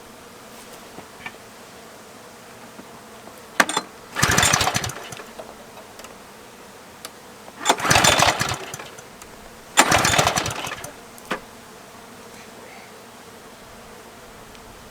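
Small gas engine on a bee vacuum being pull-started three times, each pull a brief burst of engine noise that dies without catching; the engine is out of fuel.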